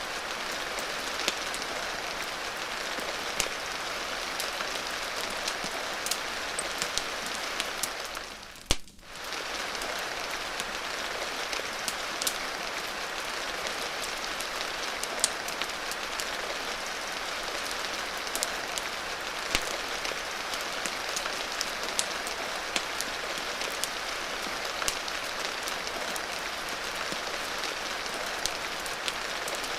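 Steady hiss of falling rain, dotted with sharp, irregular crackles and pops as from a wood fire. The sound briefly drops away just under nine seconds in, then comes back.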